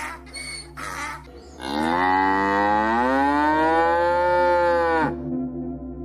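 A large farm animal's single long, drawn-out call, starting about a second and a half in, rising slowly in pitch and easing off before stopping abruptly after about three and a half seconds.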